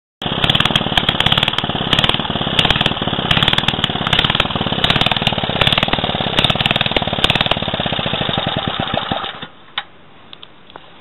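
Clinton 900 small single-cylinder engine running fast with a sharp, rapid firing rattle, then shutting off about nine seconds in, leaving a few faint ticks.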